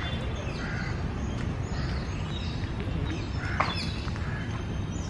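Birds chirping in the trees, short high calls every second or so over a steady low background noise, with one sharper chirp about three and a half seconds in.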